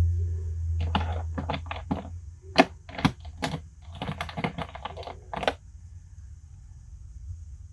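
A quick, irregular run of sharp clicks and taps of small hard parts being handled, about twenty in four and a half seconds. They stop about two seconds before the end, leaving a low steady hum.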